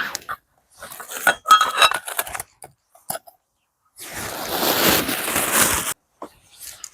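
Several light clinks of dishware, some ringing briefly, followed by about two seconds of steady noise.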